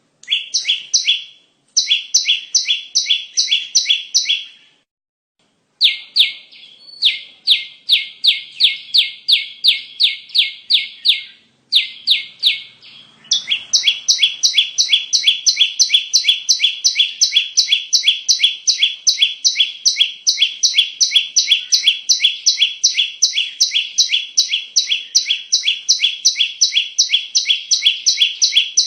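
Bar-winged prinia (ciblek) song: fast strings of sharp, high chirps, several a second, broken by a few short pauses in the first half and then running without a break from about halfway.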